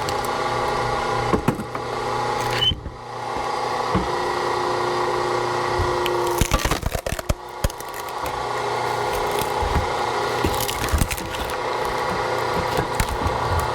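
An engine running steadily, with firewood cracking and splintering in a cluster of sharp cracks about halfway through and a few single knocks elsewhere.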